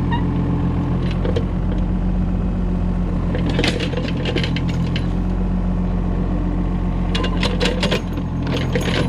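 Excavator diesel engine running steadily. Bursts of metallic clinking and rattling come about three and a half seconds in and again near the end.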